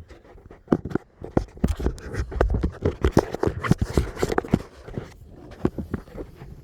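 Irregular clicks, knocks and scraping of hands pulling at a car's sunroof drain hose and the plastic around it while trying to unplug it. It thins out near the end.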